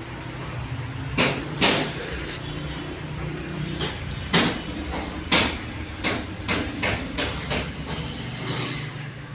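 A series of sharp knocks at irregular intervals, about a dozen, over a steady low hum.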